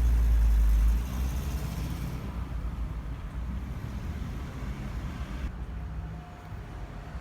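Road traffic: a motor vehicle's low engine rumble, loudest for about the first second, then falling to a quieter, steady hum.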